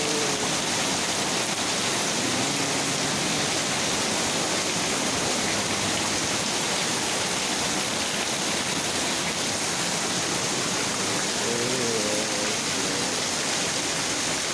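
Heavy rain falling steadily: a constant, dense hiss.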